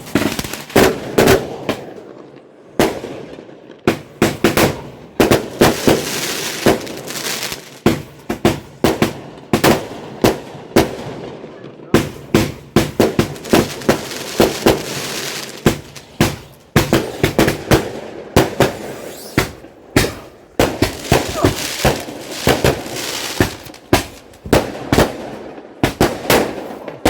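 Barrage of aerial firework shells bursting: sharp bangs in quick succession, often several a second, with crackling between them.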